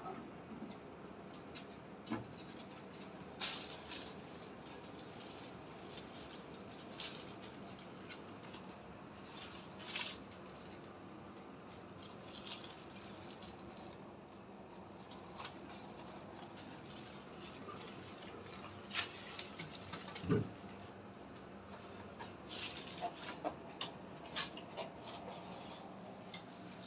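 Scattered light taps, clicks and rustles of things being handled, the sharpest knock about twenty seconds in, over a faint steady low hum.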